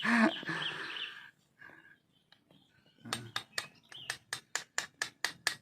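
A voice trails off, then about three seconds in comes a quick, even run of sharp clicks, about six a second.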